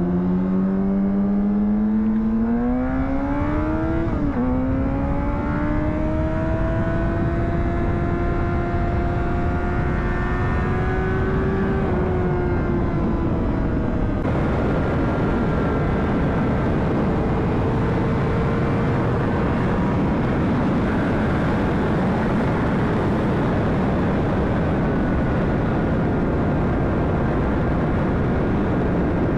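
2009 Honda CBR600RR's inline-four engine accelerating hard, its pitch climbing with a quick upshift about four seconds in, then rising more slowly. About twelve seconds in the engine eases off and steady wind rush on the rider's microphone takes over as the bike cruises.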